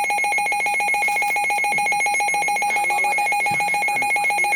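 Weather radio alert alarm: a rapidly pulsing electronic beep, held at a steady pitch, sounding the arrival of a High Wind Warning.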